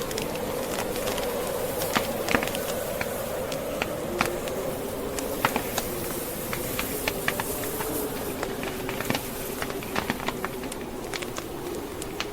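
Wood fire crackling with frequent irregular sharp pops, over the constant moan of blizzard wind that wavers slowly in pitch.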